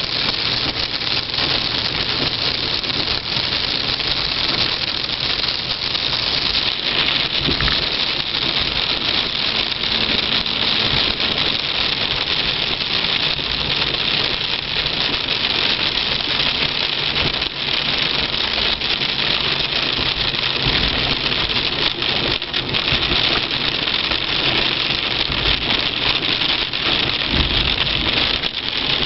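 Rain falling on a moving car: a steady, dense hiss, with low engine and road noise underneath.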